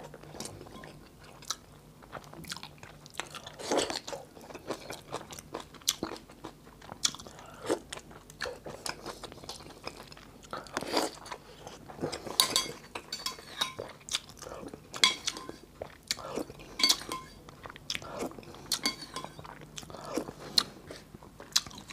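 A person chewing and eating a mouthful of rice and beef soup, with irregular wet smacks and crunchy clicks of the mouth.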